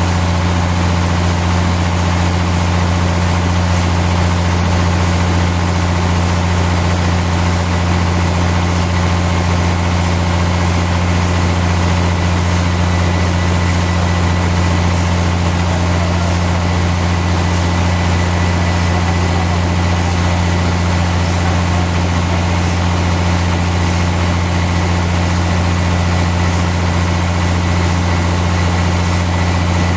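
Sawmill machinery running steadily: a loud, deep, unchanging hum with a faint steady high whine above it. There is no change in load across the whole stretch.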